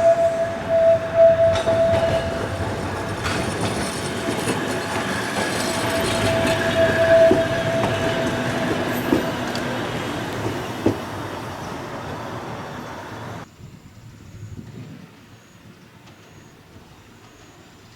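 Fukui Railway electric train running along the track with a loud rumble, a few sharp clicks, and a high steady tone near the start and again about seven seconds in. The sound drops away suddenly about thirteen seconds in, leaving a low background.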